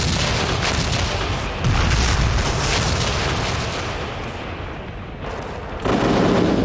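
Artillery bombardment: a loud blast right at the start, another a little under two seconds in and a third near the end, over continuous rumbling of shell bursts.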